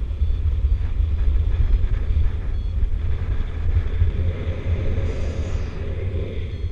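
Wind rumbling on the microphone in flight under a paraglider: a steady low buffeting, with a swell of rushing air about four seconds in.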